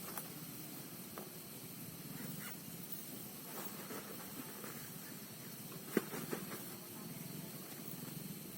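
Steady hiss of rain at night, with a few faint short calls and a single sharp tap about six seconds in.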